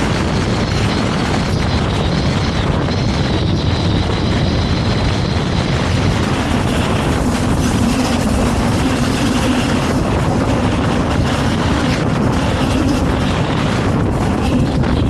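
Vario LF2R.E tram running on rails, a steady loud rumble of wheels and running gear. A thin high whine sounds over it in the first few seconds, and a lower steady hum joins about halfway through.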